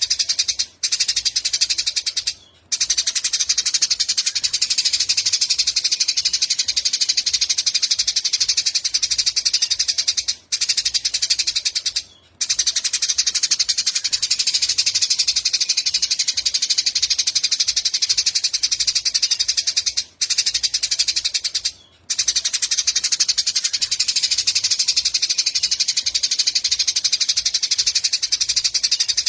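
Eurasian tree sparrows chirping in a dense, rapid, unbroken stream of high chirps, cut by short silent breaks every eight to ten seconds, as in a looped recording.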